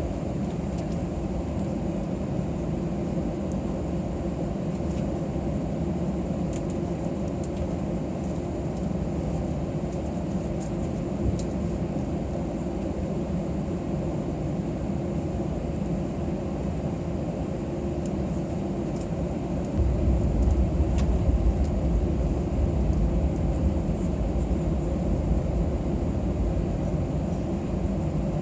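Steady cabin noise of an Airbus A320 on the ground before takeoff: a constant hum and rush from the engines and air system, with a deeper rumble that gets louder about twenty seconds in.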